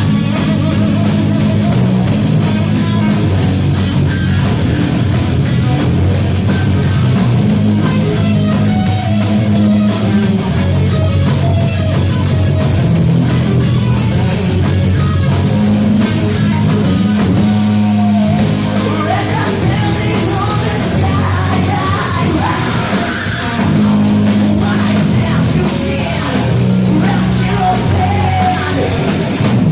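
Rock band playing live: loud heavy guitar-driven rock with a sung vocal.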